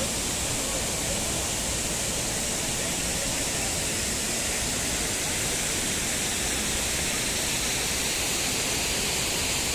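Waterfall: steady rush of falling, fast-flowing water, an even hiss that holds at one level throughout.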